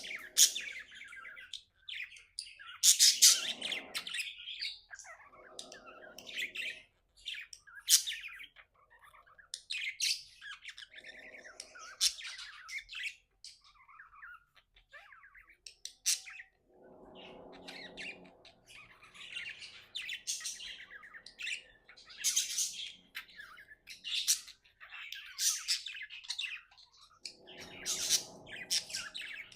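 Pet budgerigars chirping and chattering in irregular bursts, with short, rougher squawks every few seconds.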